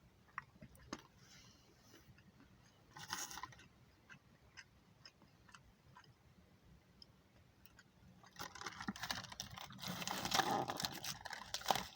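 Someone eating inside a car: scattered small clicks and crunches, a short rustle about three seconds in, and a longer, louder crackling rustle of food packaging from about eight seconds in.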